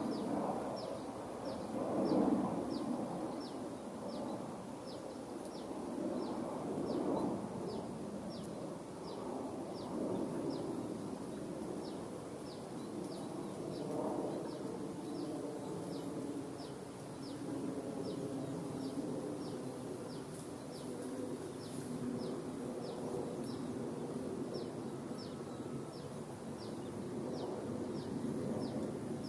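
A short, high, falling chirp repeating evenly, nearly twice a second, over a rustling, windy background.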